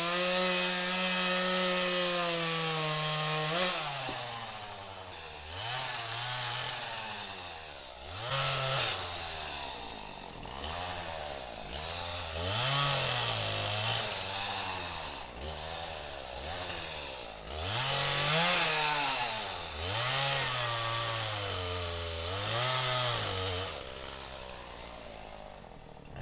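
A chainsaw held at high revs for the first few seconds, then revved up and eased back about every two seconds while cutting wood. It drops off near the end.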